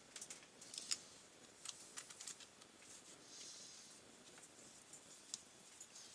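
Faint, irregular light clicks and taps from hand work on small parts, with a brief soft hiss about three and a half seconds in.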